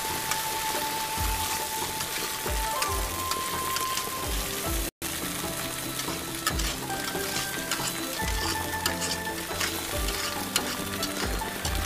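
Chunks of pork belly sizzling and spattering in hot oil in a wok, over background music with steady tones and a regular low beat. The sound cuts out completely for a moment about five seconds in.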